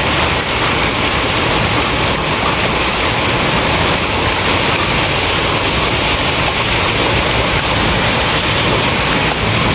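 Steady rain falling, an even hiss with a few faint distinct drops.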